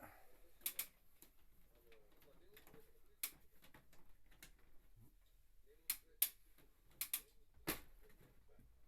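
Scattered light clicks and taps, about ten of them at irregular intervals, over a quiet background.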